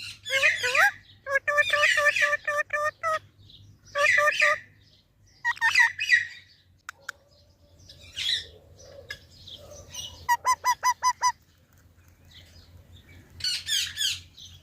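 Pet parrot calling in short bursts of squawks and chirps, including two quick runs of repeated notes, one about a second in and another about ten seconds in.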